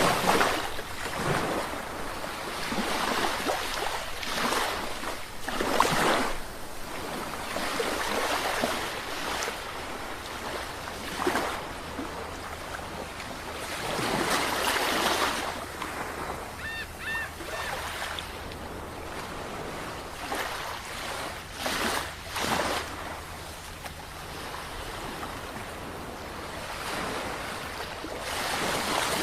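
Sea waves breaking and washing up the shore, the surf swelling and falling away in surges every several seconds.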